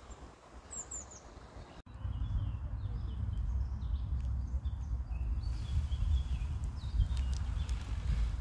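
Songbirds chirping outdoors, a few quick high falling chirps about a second in. About two seconds in the sound cuts to a loud, uneven low rumble, with more short bird chirps over it.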